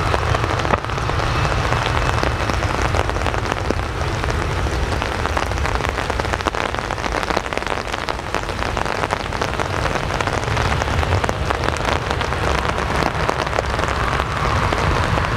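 Steady rain pattering, with many separate drop hits close by, over a low rumble.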